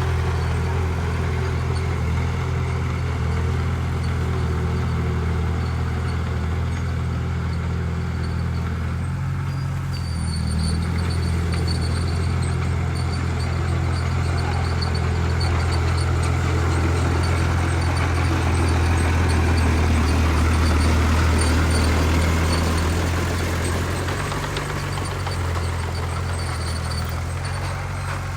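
Heavy diesel engine running steadily at an even pitch. It grows louder and rougher from about a third of the way in, then eases back near the end.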